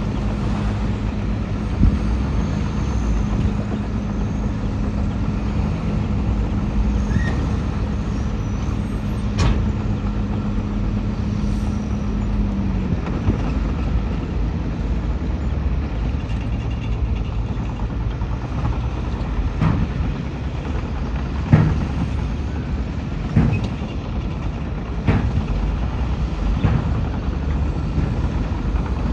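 Heavy diesel engines of a bulldozer and dump trucks running. A steady engine note drops about halfway through, and several sharp metallic clanks come in the second half.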